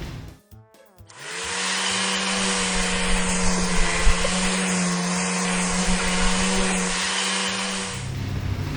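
Car wash machine sound effect: a steady motor hum under a loud hiss, starting about a second in and cutting off just before the end.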